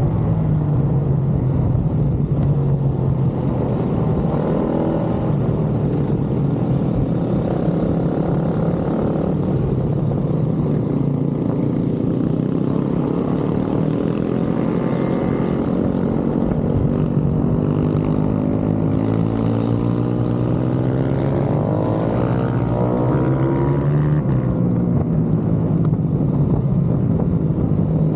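Pit bike engines running hard, their note rising and falling over and over as they accelerate and shift.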